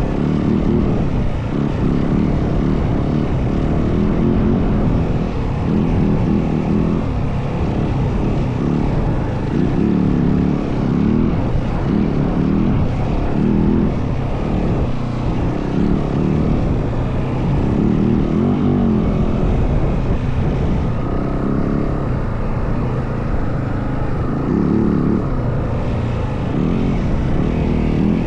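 Yamaha WR450F dirt bike's single-cylinder four-stroke engine running under way, loud and steady, its note swelling and easing every second or two.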